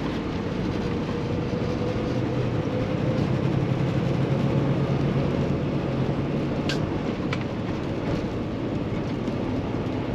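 In-cab sound of a Kenworth T680 semi truck under way: the PACCAR MX13 diesel engine running steadily with a low drone, mixed with road and wind noise. Two short clicks about two-thirds of the way through.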